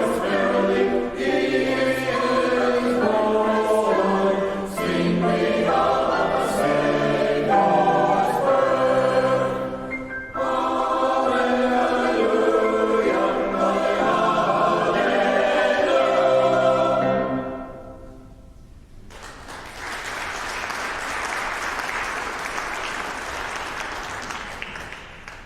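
A church choir singing, the song ending about 17 seconds in; after a short pause the congregation applauds for several seconds, the clapping fading near the end.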